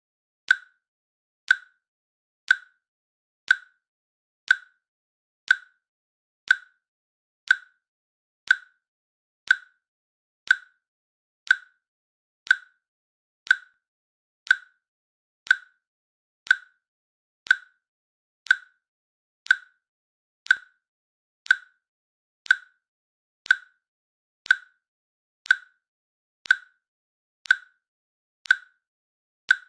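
Timer click track: a short, sharp, high click once a second, evenly paced, with silence between clicks.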